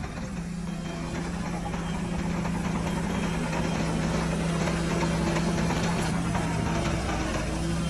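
Heavy diesel engine of earthmoving machinery running steadily at low revs, with a constant low hum that gets a little louder about three seconds in.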